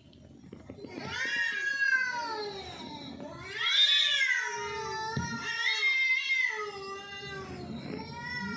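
Domestic cat meowing over and over: a string of long, drawn-out meows that rise and fall in pitch, the loudest about four seconds in.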